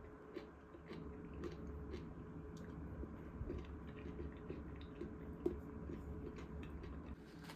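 Faint, irregular small clicks and mouth sounds of someone chewing food, over a low steady room hum.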